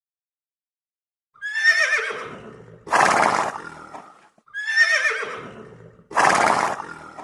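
Horse whinnying twice, about three seconds apart. Each whinny starts as a high, quavering cry and ends in a harsher, noisy blast.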